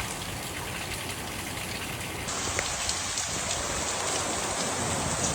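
Steady rain with individual drops ticking on a surface. About two seconds in it turns louder and hissier with more distinct drop hits, and near the end it drops back suddenly.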